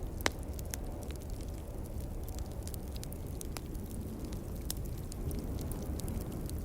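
Wood fire crackling, with scattered sharp pops and one louder snap about a quarter second in, over a steady low rumble.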